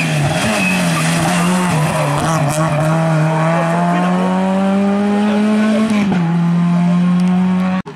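Rally car engine under hard acceleration. The pitch dips about half a second in, then climbs steadily for several seconds. It drops sharply with an upshift about six seconds in and holds until the sound cuts off abruptly near the end.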